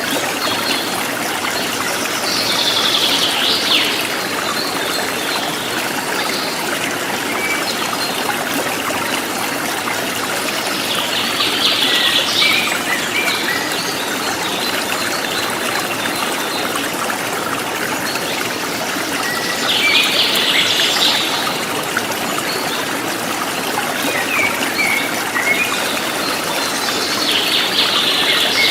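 River water flowing steadily. A bird sings a short phrase four times, about every eight seconds, over the water.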